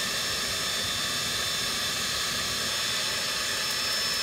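Small jet turbine engine of a JetGyro running during its first start: a steady high whine over a rushing hiss.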